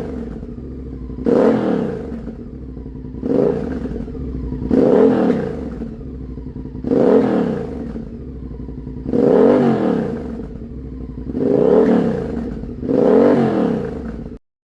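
Honda Varadero 1000's V-twin engine through a homemade welded exhaust, idling and being blipped on the throttle: about seven short revs, each rising and falling, roughly every two seconds. It cuts off suddenly near the end.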